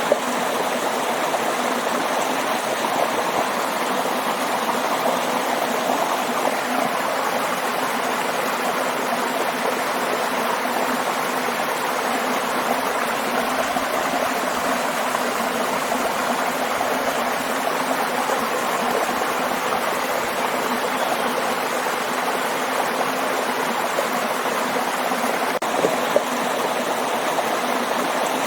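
Waterfall: water rushing steadily in an even, unbroken wash.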